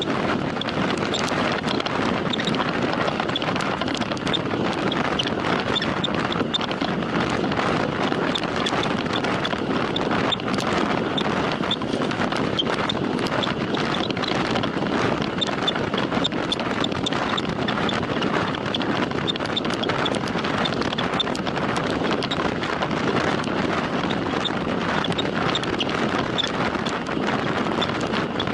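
Steady rush of wind over the microphone of a camera riding along on a road bike at time-trial speed, with a faint, regular high ticking running through it.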